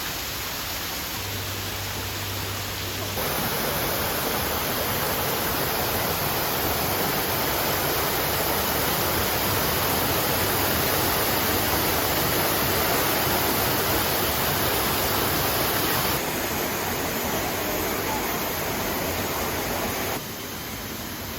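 Steady rushing noise of running water, with no clear pitch. It steps louder about three seconds in and drops back in two steps near the end.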